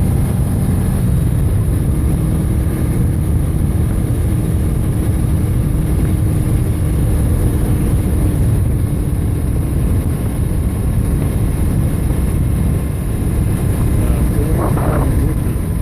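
Steady loud low rumble of wind and vehicle noise from riding on the move, with a brief faint rising tone near the end.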